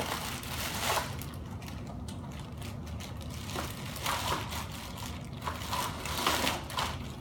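Packaging and plastic vacuum parts being handled during unboxing: irregular crinkling and rustling with a few light knocks.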